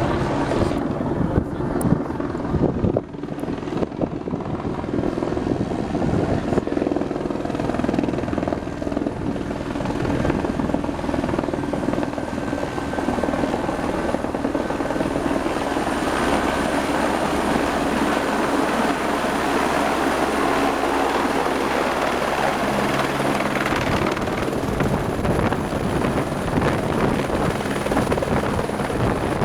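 Helibras Esquilo helicopter running close by: steady rotor noise with a thin, steady high turbine whine. The deep low rumble drops away about three-quarters of the way through.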